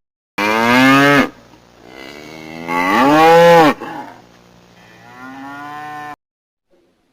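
Cow mooing three times: a short first moo, a longer, loudest moo that rises in pitch, then a quieter last one.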